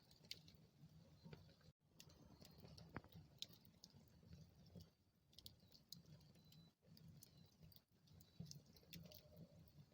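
Wood fire burning in a fireplace: faint, irregular crackles and small pops over a low, steady rumble of the flames.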